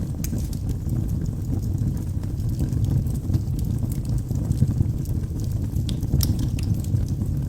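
Wood fire burning in a fireplace: a steady low rumble of flames with scattered sharp crackles and pops from the burning logs, a few louder ones a little after six seconds in.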